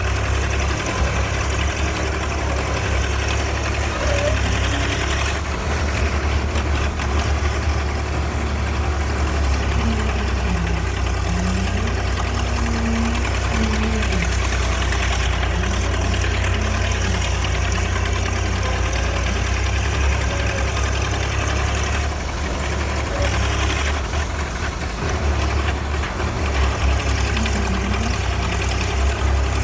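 Heavy vehicle engine running steadily at low revs, with a deep hum.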